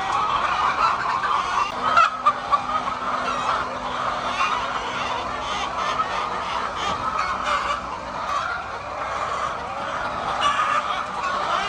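A large flock of chickens clucking and cackling together in a dense, unbroken din, with a couple of sharp knocks about two seconds in.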